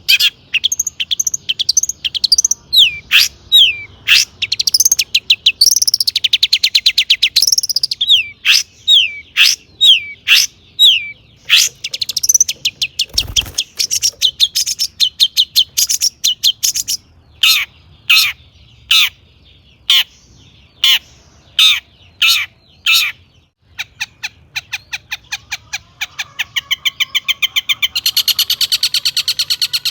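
Long-tailed shrike (cendet) singing a loud, fast, varied song full of mimicked calls: sharp repeated notes and downward-sliding whistles, turning to rapid trills and dense chatter near the end.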